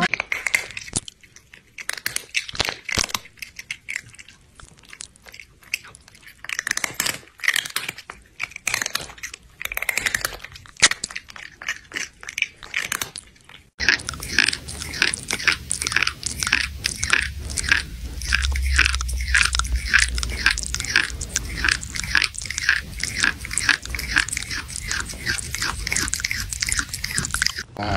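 Close-miked chewing and crunching of food, with scattered bites at first and then, about halfway through, a faster, steady run of crunching over a low hum.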